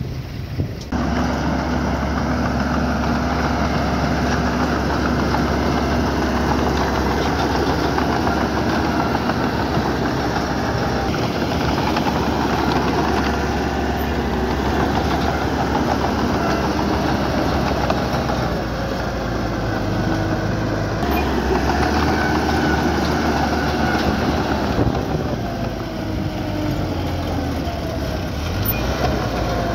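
Diesel engine of small earthmoving equipment running steadily under work. The engine note shifts a few times along the way.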